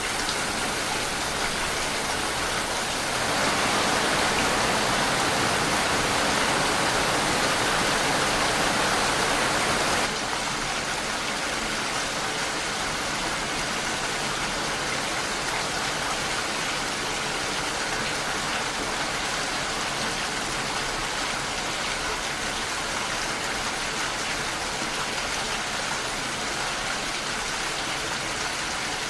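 Steady rain, a dense even hiss of falling drops. It grows louder about three seconds in and falls back a little about ten seconds in, where the recording appears to be spliced.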